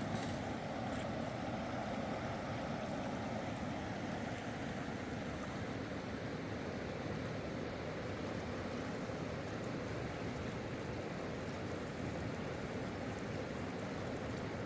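Steady rushing noise of river water.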